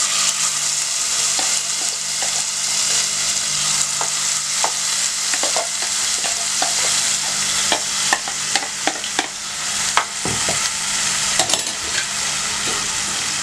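Freshly ground wet masala paste frying in hot oil with cumin seeds in a nonstick pan: a steady loud sizzle with scattered sharp clicks and crackles.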